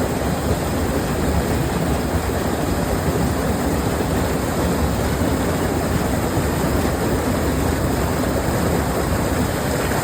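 Waterfall: water pouring down and splashing in a steady, loud rush.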